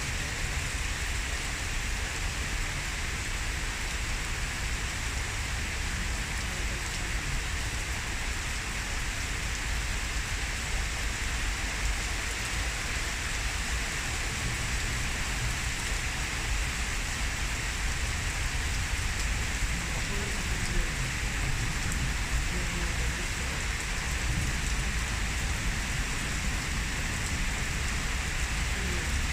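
Heavy downpour: steady rain pouring and drumming on surfaces.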